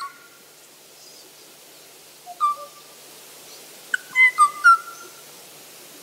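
Recorded song of a Kauai ʻōʻō, played back over loudspeakers: short, clear whistled notes, one about two and a half seconds in and a quick run of three or four near the end. It is the lone last bird of its kind singing for a mate, in a species that would typically duet.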